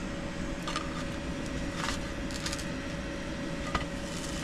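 A spatula knocking and scraping in a pan while a burrito heats: a few short clicks over a steady low rumble.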